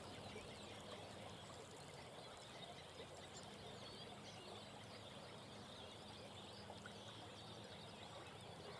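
Faint chorus of frogs croaking with small songbirds singing, many short high chirps over a steady low drone of calls.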